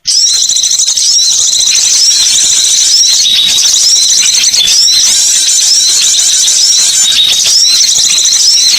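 Bird-lure recording of many small birds chirping densely at a high pitch, with short rising-and-falling notes repeating about twice a second over a constant chatter.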